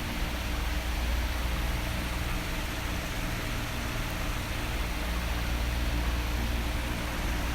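Electric fan running steadily: an even, airy hiss over a low rumble.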